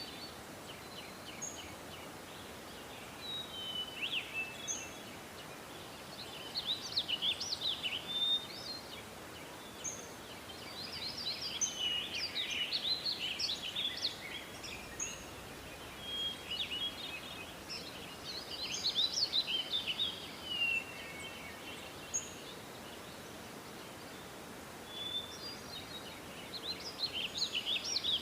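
Songbirds singing: clusters of quick chirps and trills every few seconds over a faint steady hiss, a forest birdsong ambience.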